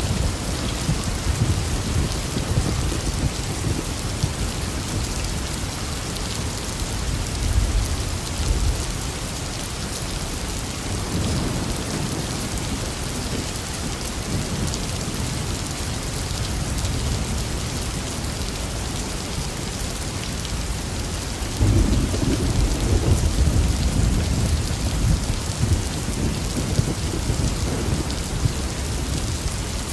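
Steady heavy rain falling, with thunder rumbling low under it at the start and again in a louder rolling peal about two-thirds of the way through.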